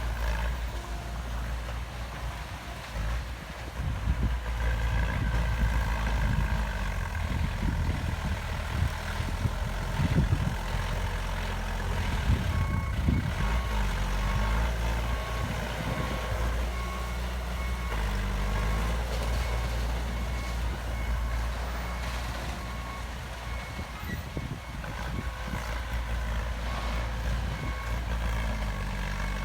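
Heavy diesel construction machinery running with a low, uneven rumble, and a reversing alarm beeping repeatedly from about twelve seconds in until a few seconds before the end: a machine backing up.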